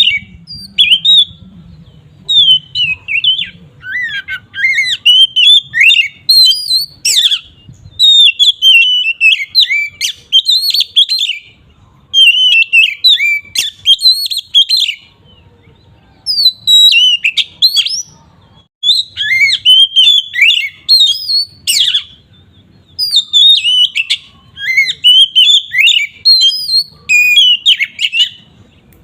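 Oriental magpie-robin (kacer) singing its full, open 'ngeplong' song: fast strings of varied whistled and chattering notes, sweeping up and down. The notes come in phrases one to three seconds long, with short pauses between them.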